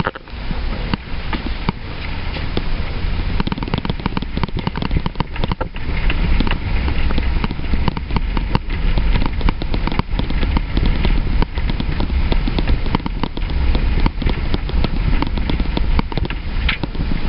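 Truck driving on a rough road, with a steady low road rumble under dense, irregular crackling and rattling.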